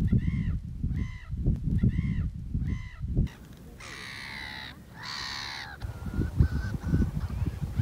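Coastal birds calling: four short pitched calls in the first three seconds, then two longer harsh, raspy calls, then a run of quick short calls near the end. Wind buffets the microphone with an uneven low rumble.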